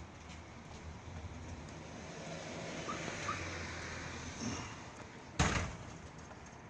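A low steady hum with two short bird chirps, then a single sharp thump about five and a half seconds in, the loudest sound here.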